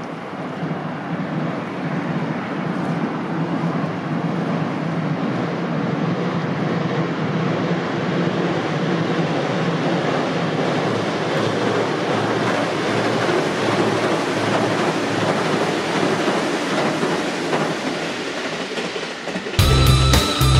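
JR Central 373 series electric train running across a steel girder railway bridge: a steady rumble of wheels on the bridge that swells over the first two seconds and holds. Near the end it cuts abruptly to loud rock music with electric guitar.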